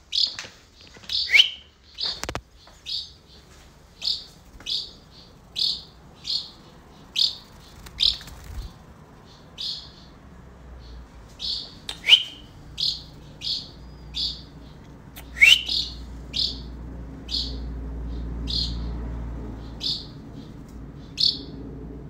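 A bird chirping over and over in short high notes, about two a second, with a few louder sweeping calls around the middle. A low steady rumble comes in during the second half.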